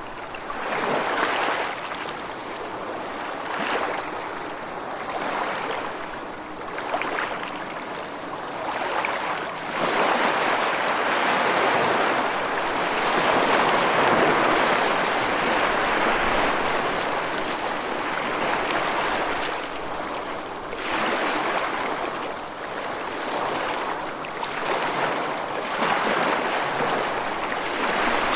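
Rushing water making a continuous wash that swells and eases every few seconds, loudest through the middle stretch.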